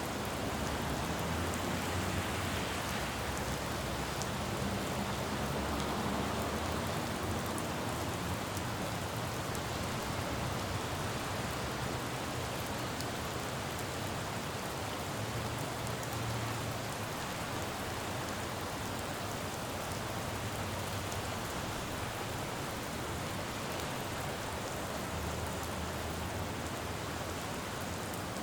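Steady rain falling on a city road, with the low rumble of passing traffic rising and fading a few times.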